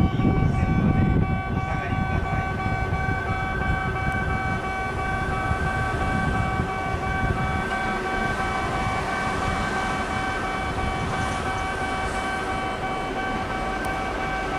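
A Kintetsu 1430 series two-car electric train runs toward the station with a low rolling rumble. Steady electronic warning tones ring over it throughout.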